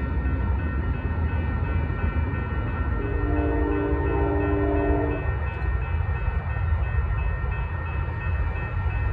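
Amtrak Coast Starlight passenger train pulling away, a steady low rumble, with a grade-crossing warning bell ringing steadily. About three seconds in, the departing train's multi-chime horn sounds one chord for about two seconds.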